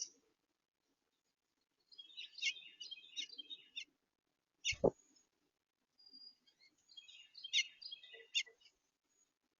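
Small songbirds at a feeder chirping in two short bursts of quick, high notes, with a single sharp knock about five seconds in.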